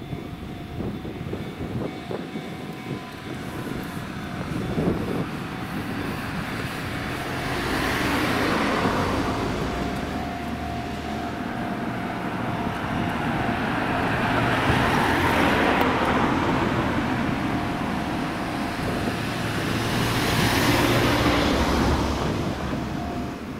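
Electric train running past on the line, its noise swelling and easing off several times, loudest about 8, 15 and 21 seconds in.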